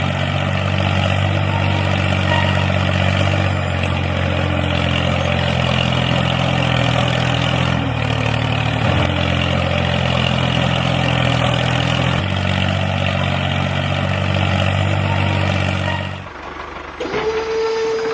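Steady engine-like running drone with a low hum, its pitch stepping slightly a few times. About 16 seconds in it cuts off abruptly, and a single held tone follows that slides down in pitch.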